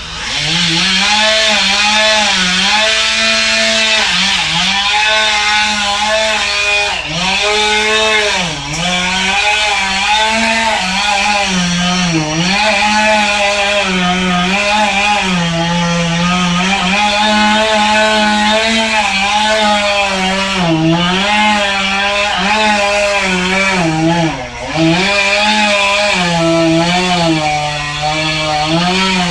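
Chainsaw throttled up and cutting through a tree, its engine pitch repeatedly sagging and recovering as the chain bites into the wood, with brief drops in speed a few times.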